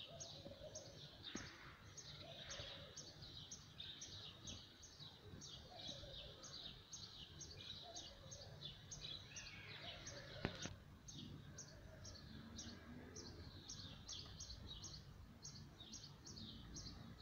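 A small bird chirping over and over, about three short high chirps a second, faint over low background rumble. A single sharp click about ten seconds in.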